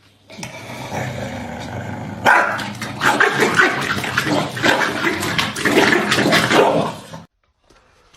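A dog vocalizing over a loud rush of water noise, cutting off abruptly about seven seconds in.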